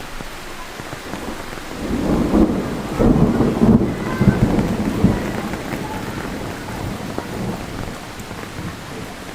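Heavy rain falling steadily, with a roll of thunder that swells about two seconds in, is loudest around three to four seconds, and rumbles away over the next few seconds.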